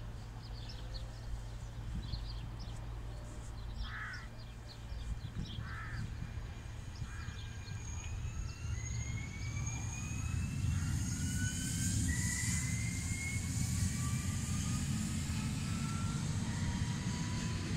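Alstom Régiolis electric multiple unit (Z 51500 class) approaching. From about halfway there is a whine that climbs slowly in pitch, and a rumble of wheels on rail that grows louder toward the end. Bird chirps and a few harsh calls are heard in the first half.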